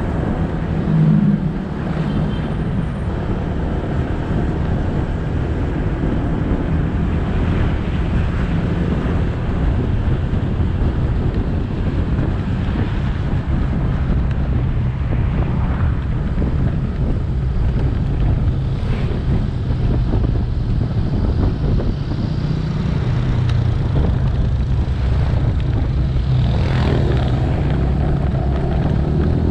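Motorcycle engine running steadily while riding, with continuous road and wind noise, and brief swells of other passing traffic.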